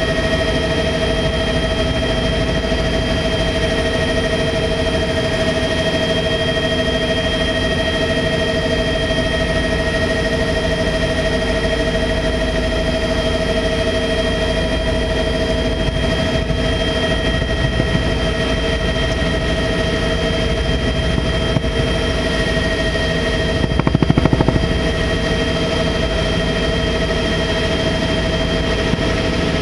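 Tour helicopter in flight: steady turbine and rotor noise, a low rumble with a constant high whine over it, swelling briefly louder about 24 seconds in.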